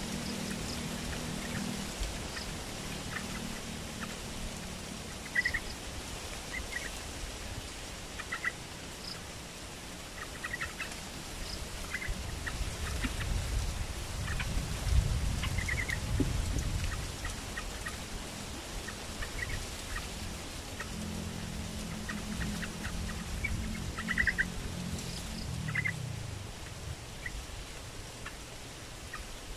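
Small birds (trao trảo) in a bamboo trap cage chirping in short, scattered bursts. A low hum sounds at the start and again from about two-thirds of the way through, then fades out.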